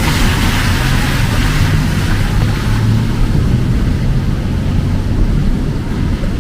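Street traffic in heavy rain: a vehicle engine running close by with a low rumble, over the hiss of rain and wet road, which eases about three seconds in.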